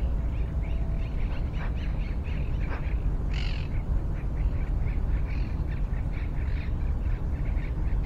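Wild birds calling: many short chirps throughout, with one louder, harsh call about three and a half seconds in, over a steady low rumble.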